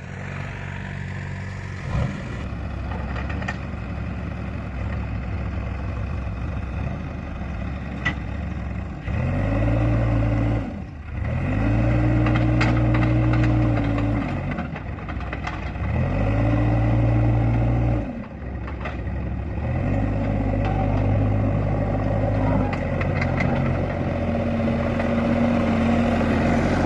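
Diesel engine of a backhoe loader or farm tractor running at idle and revving up four times, each rev held for two or three seconds before dropping back, with a few light clanks.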